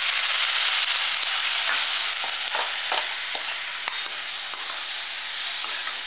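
Soaked moong dal sizzling in hot ghee tempered with cumin and asafoetida in a metal kadai, the frying dal being stirred, with a few light clicks of a utensil against the pan. The sizzle is strongest in the first second and eases slightly after.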